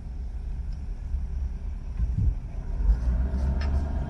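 Car driving slowly along a town street, heard from inside the cabin: a steady low road and engine rumble.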